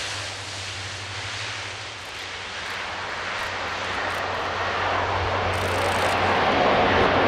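Airbus A400M's four Europrop TP400 turboprop engines and propellers running, a steady low propeller hum under a broad roar that grows louder over the second half.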